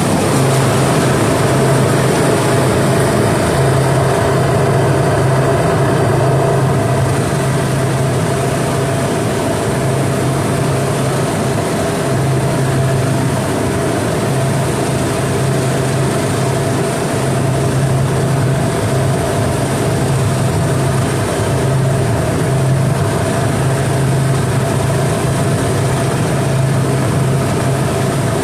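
Walk-in freezer refrigeration unit running with a steady mechanical hum as it pulls the box back down to temperature after its pressure control was readjusted.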